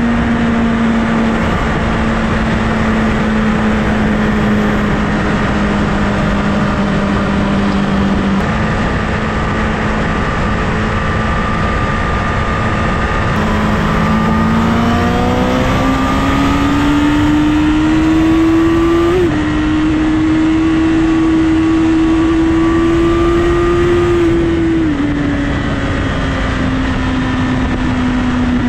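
Honda CBR1000RR inline-four sport-bike engine running at highway speed, with wind rushing over the microphone. The engine note holds steady, then climbs over several seconds as the rider accelerates midway, holds at the higher pitch, and drops back a little near the end.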